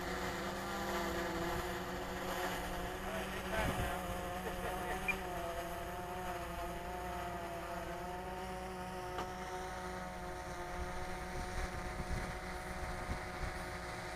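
Electric motor and propeller of a radio-controlled aircraft in flight: a faint, steady hum whose pitch drifts slowly up and down.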